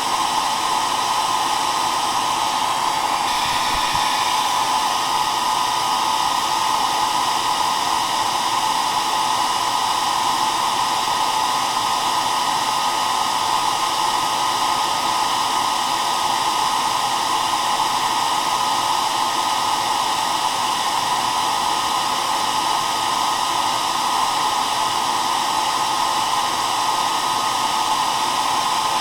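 Hair dryer running continuously, a steady whooshing noise with a faint whine above it.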